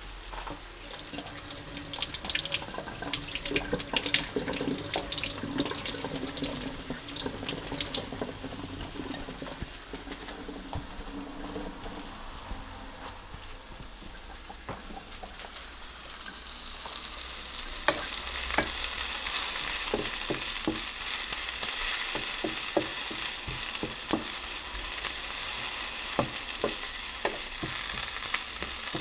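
Fajita ingredients frying and sizzling in a hot pan, with sharp clicks of a utensil stirring. The sizzle grows louder and fuller a little past the halfway point.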